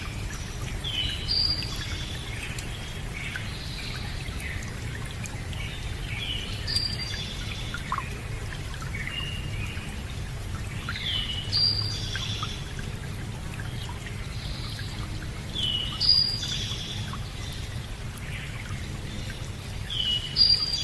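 Birds singing, one phrase coming back about every four to five seconds, over a steady sound of running water.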